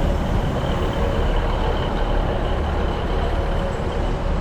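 A vehicle running steadily: a continuous low rumble with a faint high whine over it.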